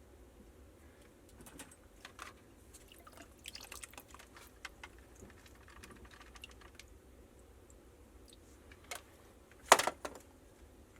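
Scattered light clicks and taps of hands working the old water pressure regulator and its fittings free from the pipe, with one sharp, louder knock about ten seconds in.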